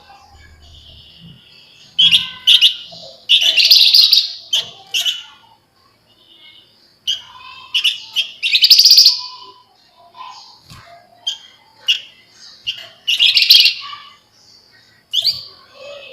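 Javan fulvetta (flamboyan) singing in loud bursts of fast, dense, shrill chattering trills, separated by short pauses.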